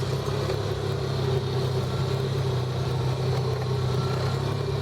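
Engine of an off-road vehicle being ridden slowly along a trail, running at a steady, even speed with no revving.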